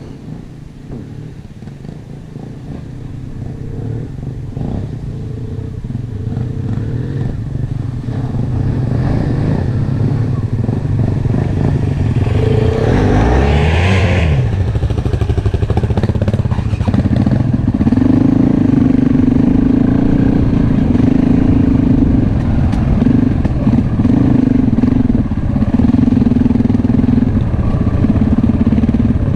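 Enduro motorcycle engine running while riding, growing louder over the first ten seconds. The pitch sweeps briefly around the middle as the revs change, then the engine holds a steady high drone.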